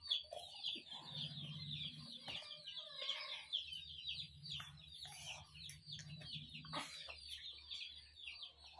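Birds chirping: a dense, steady stream of quick, high, falling chirps, with a faint low hum underneath.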